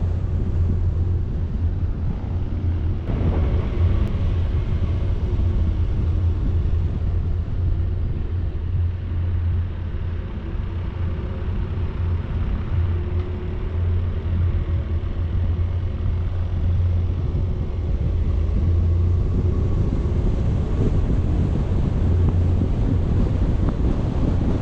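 Steady low wind rumble buffeting the action-camera microphone while moving, with a faint wavering vehicle engine drone underneath.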